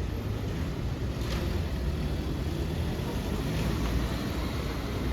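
Steady outdoor waterfront city ambience: a low rumble under an even hiss, with a faint brief sound about a second in.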